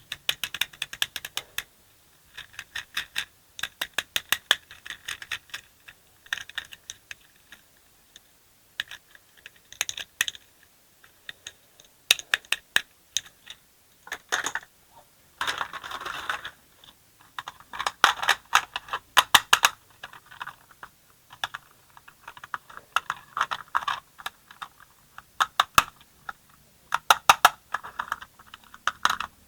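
Hard plastic toy parts being handled, clicking and clattering in irregular clusters of sharp ticks, with a short scraping rattle about halfway through.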